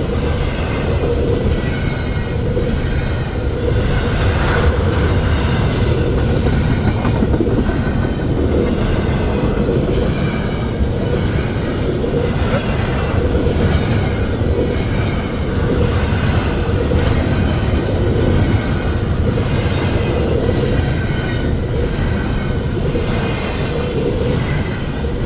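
Freight train cars rolling past at a steady pace, a continuous loud rumble and rattle of wheels on the rails.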